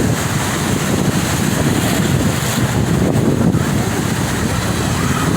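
Ocean surf washing on the shore, with wind buffeting the microphone in a steady rush of noise.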